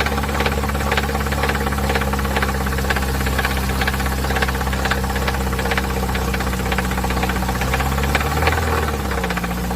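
Chevrolet (GM) car engine idling with a loud, regular knocking from inside the engine. The idle sags briefly near the end and picks back up. The mechanic later traces the racket to an engine that ran short of oil, with broken pieces in the sump and excessive play in its internals.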